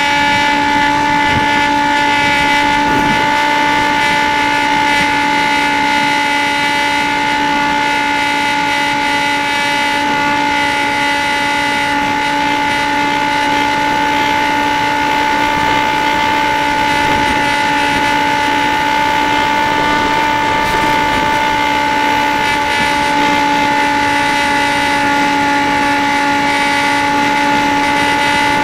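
Dynam Hawk Sky RC plane's brushless electric motor and propeller running at high throttle: a loud, steady whine that holds its pitch, after spinning up just before. A rough rushing noise lies underneath.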